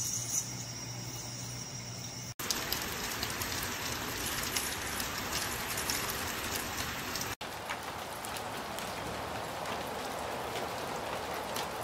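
Steady rain with water splashing down a rain chain's cups. The sound cuts out briefly twice, about two and a half seconds in and again about seven and a half seconds in.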